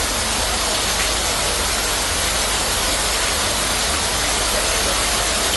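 Steady rush of fast-flowing floodwater, an even noisy roar that cuts off suddenly at the end.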